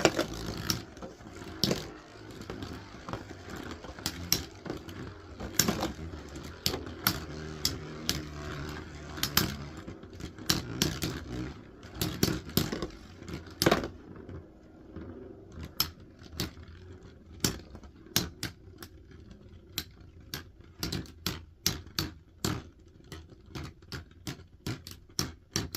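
Metal Fight Beyblades Lightning L Drago and Storm Aquario spinning and colliding in a plastic stadium. A steady whir with repeated sharp clacks of metal wheels hitting each other and the stadium wall; after about 14 s the whir drops away while the clacks go on.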